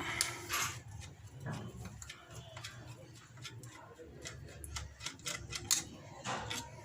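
Scattered light clicks and taps of hand tools and small metal parts while a 110cc motorcycle's electric starter motor is taken apart.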